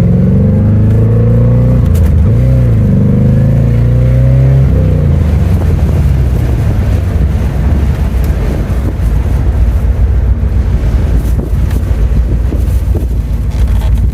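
1990 Corvette's V8 engine revving under way, its pitch rising and falling for the first five seconds or so, then settling into a steady low drone with road noise.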